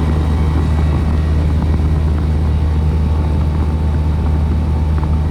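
Outdoor heat pump units running in heating mode, a steady low hum of compressor and condenser fan. The coil is iced up and the unit has not yet gone into its defrost cycle.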